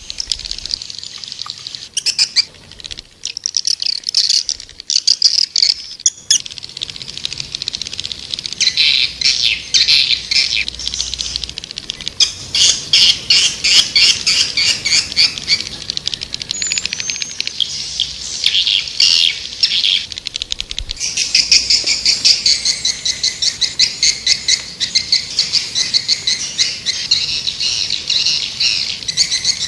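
Swiftlets calling: fast chittering trains of high, rapid chirps, with several birds overlapping and the calling growing denser in the second half. This is a swiftlet lure-call recording, the kind played to draw birds to nesting houses.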